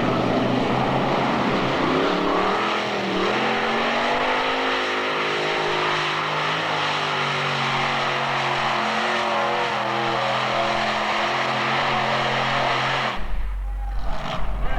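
Modified-class pulling tractor's engines running hard during a pull, their pitch dipping about two seconds in and then holding steady. Near the end the engine sound breaks off suddenly into a brief low rumble.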